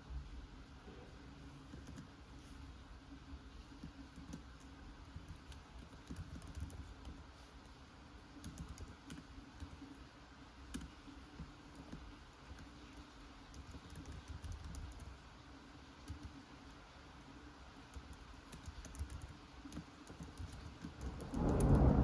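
Typing on a computer keyboard, irregular runs of key clicks, over a steady hiss of rain. Near the end a loud low rumble of thunder swells up.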